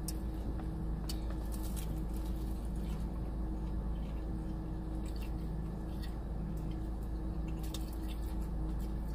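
A person chewing and biting into fried ranch chicken wings close to the microphone: soft, wet mouth sounds with scattered faint crunches. A steady low hum runs underneath.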